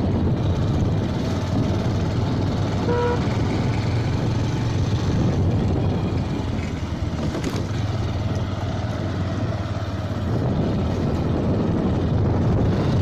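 Motorcycle running steadily on the road with a continuous engine and road rumble. A horn toots briefly about three seconds in.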